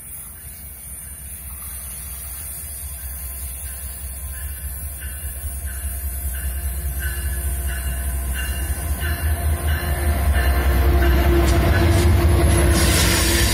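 Diesel locomotive of a Vitória a Minas passenger train approaching and passing, its deep rumble growing steadily louder, with a regular high-pitched pulsing tone about two and a half times a second. As the locomotive goes by near the end, a rush of wheel-on-rail noise joins in.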